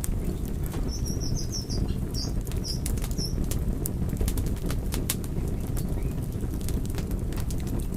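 Wood fire crackling, with irregular sharp pops over a steady low roar. A brief run of high chirps comes about a second in.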